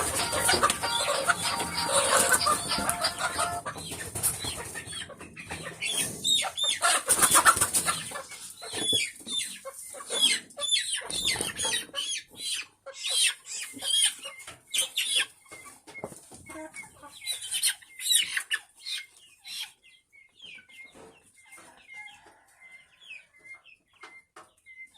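A flock of chickens clucking and squawking, busiest in the first half, with some wing flapping. Later, short high peeps repeat about twice a second over sparser clucks.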